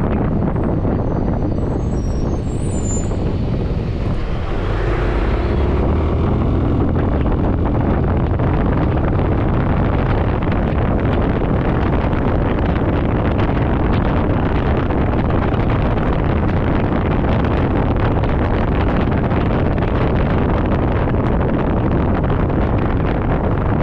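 Steady wind rush and road noise from riding a Suzuki Burgman 400 scooter in traffic. A deeper vehicle drone comes up about five seconds in. A few faint high chirps sound about two seconds in.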